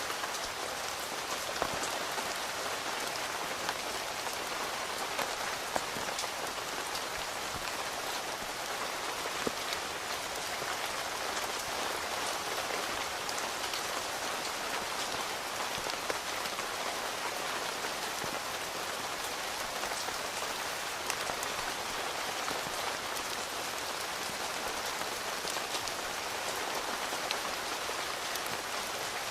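Steady rain falling on a tent, heard from inside: a dense, even patter with scattered sharper drop ticks.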